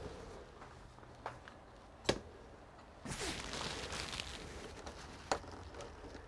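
Small parts being handled while a computer is taken apart: three sharp clicks, the loudest about two seconds in, and a rustling scrape lasting about a second and a half in the middle.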